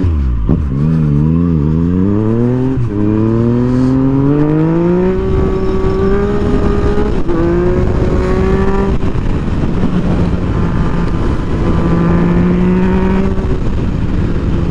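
Motorcycle engine pulling up through the gears: the pitch climbs, drops sharply at upshifts about three and seven seconds in, then holds fairly steady at cruising speed.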